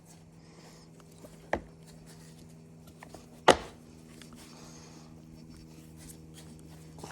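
Two sharp clacks of hard parts or tools being handled during work on a chainsaw, the second louder, with a few faint ticks, over a steady low hum.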